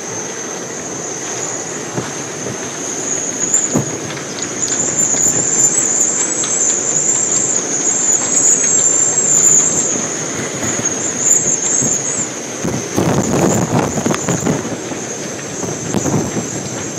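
Hurricane-force wind blowing hard, with a steady high whistle that swells for several seconds and then eases. Heavier gusts rush through near the end.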